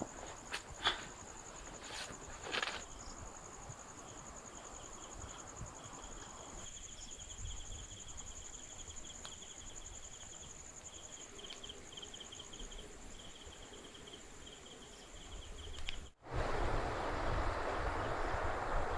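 Night insects, crickets, trilling: one continuous high, fine-pulsed trill and a lower trill in broken runs. There are a few knocks in the first three seconds. After a brief cut about 16 seconds in, a louder steady rushing noise takes over.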